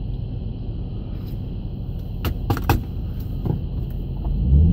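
Engine of a 2006 Infiniti G35 Sport's V6 heard inside the car's cabin, rumbling low and steady in traffic. There are two sharp clicks a little past halfway. Near the end the engine note rises as the car pulls away.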